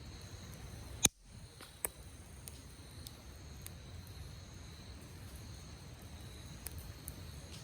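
Wood campfire crackling with scattered pops, a sharp loud one about a second in and another just under a second later, over a steady high trill of insects.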